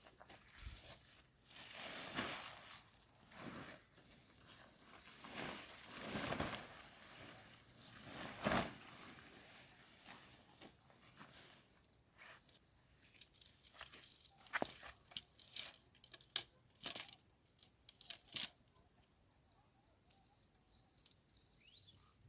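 Insects trilling steadily in a high, rapidly pulsing chorus, with a second trill switching on and off about once a second. Scattered crunching and rustling sounds and a few sharp clicks come and go through it.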